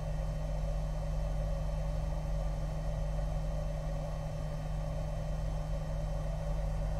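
A car engine idling, heard from inside the cabin as a steady low hum.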